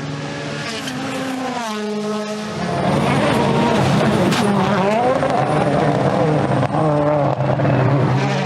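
Rally car engine revving hard, its pitch rising and falling repeatedly through gear changes, growing louder about two and a half seconds in.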